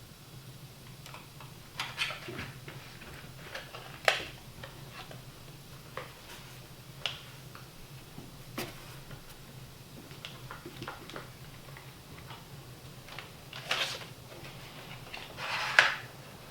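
Hands handling a new cordless nail gun and its battery and packaging: scattered light clicks, knocks and rustles, loudest about four seconds in and again near the end, over a steady low hum.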